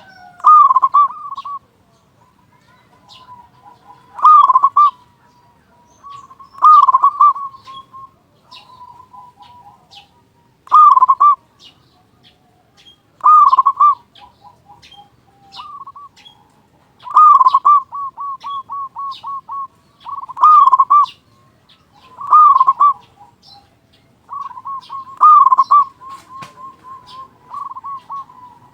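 Zebra dove (perkutut) cooing loudly in repeated phrases about every two seconds, each a strong opening note followed by a run of quick, short coos.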